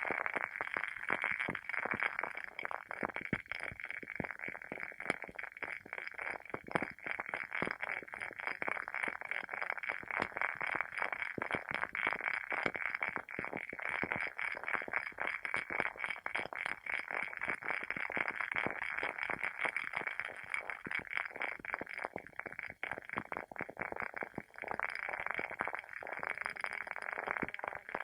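WoodWick candle's wooden wick burning with a dense, irregular crackle, like a small bonfire.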